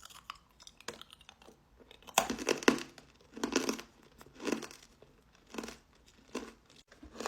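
Hard ribbon candy crunched between the teeth: a loud bite-and-crack about two seconds in, then crunching chews about once a second.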